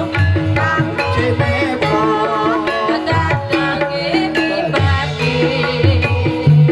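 Javanese gamelan music for a kuda lumping dance: kendang hand drums beating low strokes under a quick repeating pattern of pitched metal percussion, with a wavering melody line above.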